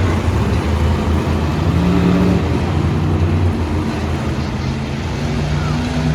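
Monster truck engine running loud and revving in an arena, its pitch rising and falling in steps over a steady wash of arena noise.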